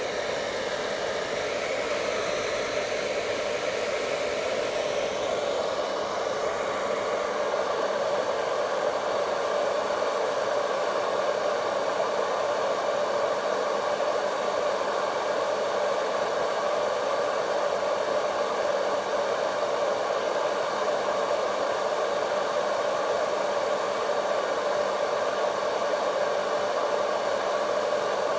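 Vidal Sassoon Hot Tools hair dryer running: a steady motor and fan whir with rushing air. Its higher tones shift a little during the first several seconds, then it holds steady.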